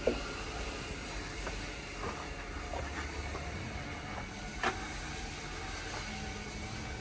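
Heavy truck running with a steady low rumble and a faint hiss, with a sharp knock just at the start and another about four and a half seconds in.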